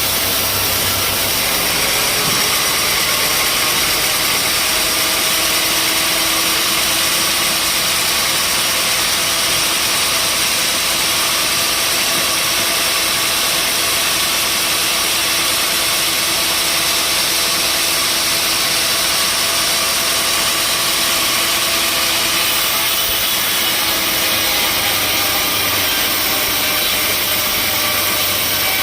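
Sawmill machinery running steadily, an engine-driven mill with a continuous even noise and no pauses.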